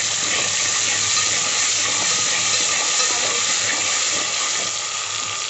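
Ginger-garlic paste and whole spices sizzling in hot oil while being stirred with a spoon: a steady, even frying hiss.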